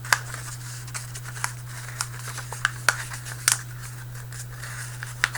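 Paper crinkling and crackling in irregular sharp clicks as a paper airplane's wingtip is rolled around a pencil, over a steady low hum.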